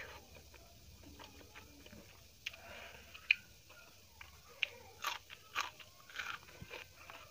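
Close-miked eating sounds of a person chewing a mouthful of rice and fried mutton, with wet mouth noises and several sharp, crunchy bites, more of them in the second half.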